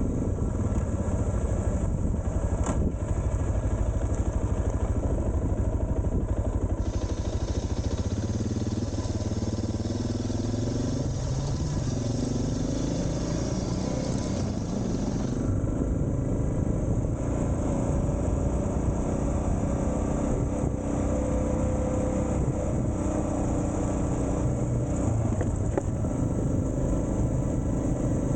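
Suzuki DR650's single-cylinder four-stroke engine running as the bike is ridden, its pitch rising and falling with the throttle. A hiss joins in for several seconds in the middle.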